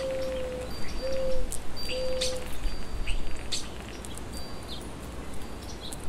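Birds calling: a low, drawn-out cooing note repeated three times in the first half, over short thin high calls of small birds.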